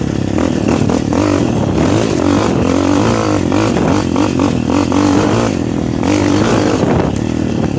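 Motocross dirt bike engine revving up and down as it is ridden over the track, its pitch rising and falling continuously.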